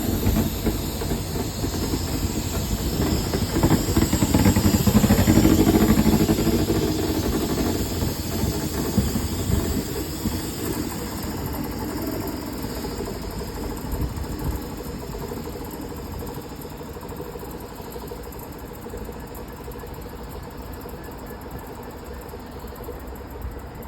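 A diesel-hauled train rolling past, its wheels running on the rails. It is loudest about five seconds in, then fades steadily as it moves away.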